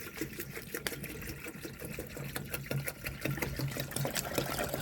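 Rain falling steadily, heard as many small, quick drop ticks. From about two seconds in there is also a low, evenly pulsing hum.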